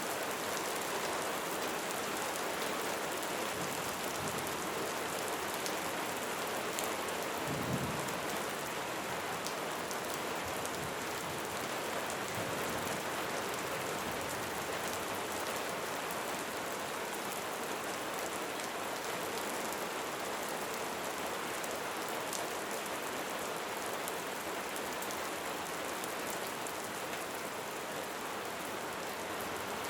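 Light rain falling steadily, a continuous hiss with scattered drop ticks. A brief low thump sounds about eight seconds in.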